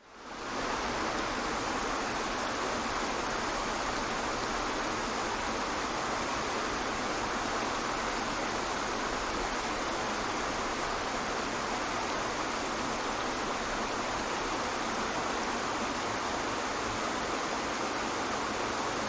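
Waterfall: a steady, unbroken rush of falling water that fades in over the first second.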